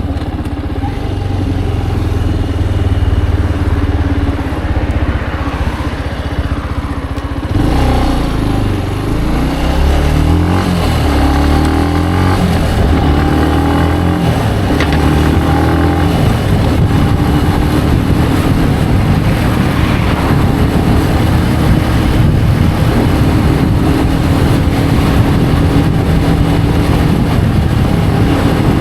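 Benelli BN125's single-cylinder engine under way, running steadily at low revs at first. About seven seconds in it revs up, its pitch climbing and dropping in steps through several gear changes, then it settles to a steady cruise.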